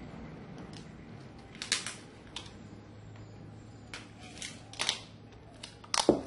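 A parcel being wrapped by hand: scattered clicks and rustles of packing material being handled at uneven intervals, loudest near the end, over a steady low hum.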